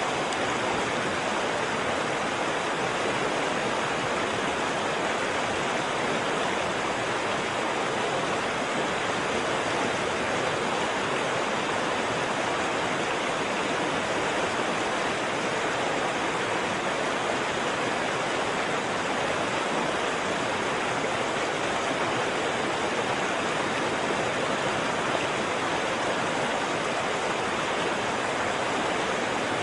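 Waterfall rushing: steady, unbroken white-water noise with no distinct splashes or changes.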